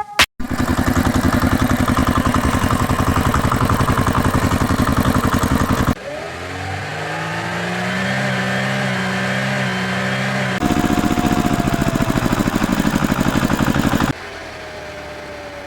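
Vehicle engine sound effects in spliced segments: a loud, fast-chugging engine for about six seconds, then an engine revving up with rising pitch, then the fast chugging again, cutting to a quieter engine with a slowly falling tone near the end.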